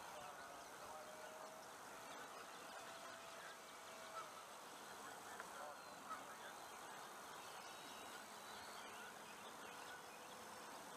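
Faint, steady whine of a distant electric RC model airplane's motor and four-blade propeller in flight, drifting slightly in pitch, over a low background hiss.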